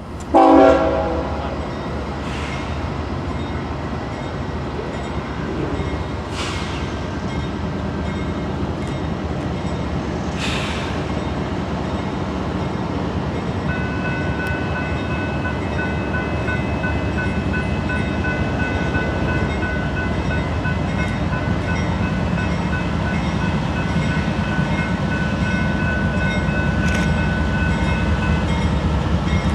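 Diesel locomotives pulling an intermodal freight train away after a crew change. A horn blast ends about a second in, then the engines' low rumble grows slowly louder as the train gets under way, with a steady high-pitched tone joining partway through.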